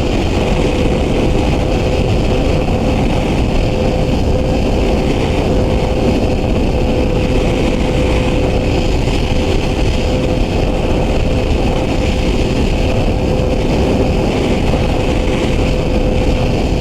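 Yamaha R6 sportbike's inline-four running at a steady speed and holding one even pitch, under heavy wind rush on the rider's microphone.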